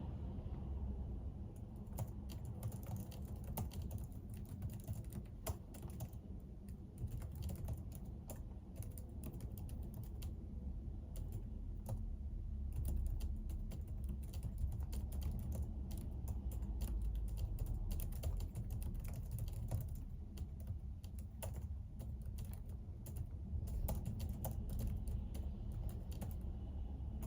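Typing on a computer keyboard: a steady run of irregular keystroke clicks, over a low steady rumble.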